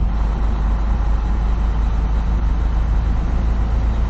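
Steady low drone of a semi truck's diesel engine and road noise, heard from inside the cab while cruising down the highway.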